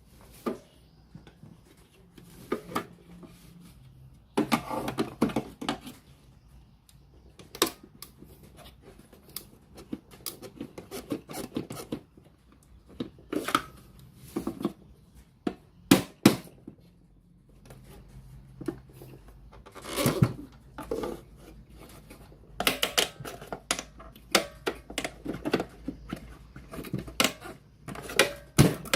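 Irregular clicks, taps and short scrapes of a radio-cassette player's casing and parts being handled during repair.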